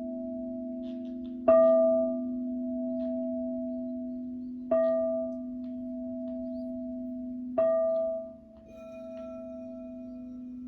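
Crystal singing bowls: a higher bowl is struck three times, about every three seconds, and each strike rings out over a steady low drone from deeper bowls. Near the end the drone changes and another bowl's tones come in.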